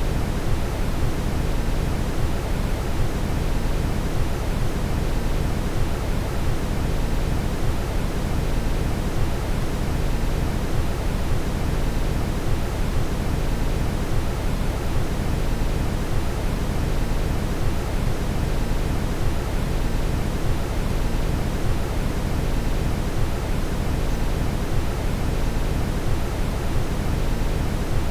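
Steady brown noise: an even, unchanging rushing hiss, deepest and strongest in the bass and thinning toward the treble.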